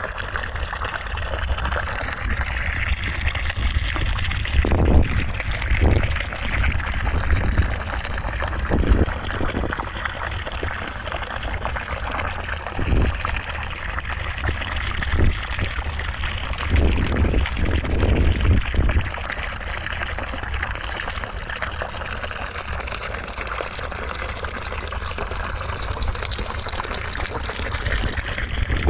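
Steady rushing white noise with a low rumble underneath and a few brief swells scattered through it.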